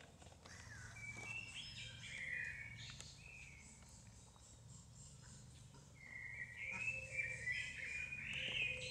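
A bird singing warbling phrases, one from about half a second to three seconds in and a louder one from about six seconds in, over a faint steady low hum.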